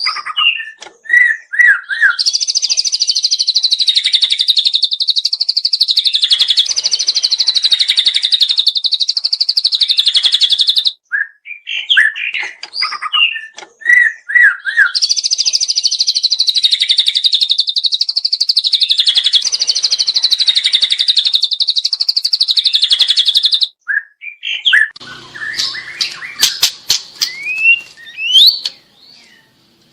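A young white-rumped shama singing. A few short chirps lead into a long, rapid, high trill of about nine seconds, and the pattern is repeated. Varied quick whistles and swooping notes follow near the end.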